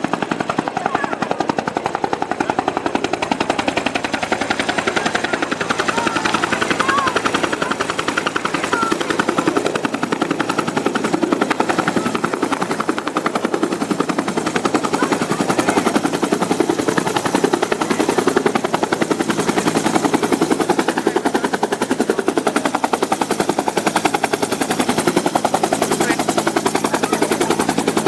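Bell UH-1 Huey helicopter running: a loud, steady, rapid thumping of its two-bladed main rotor over engine noise.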